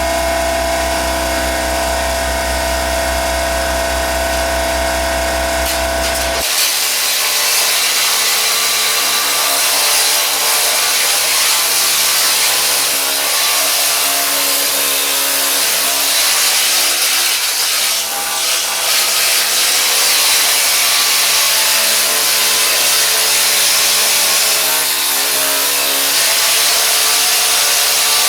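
Pneumatic needle scaler running, clearing rust from the bottom of a rusted rocker panel: a steady, even buzz for about six seconds, then a harsher, noisier rattle for the rest.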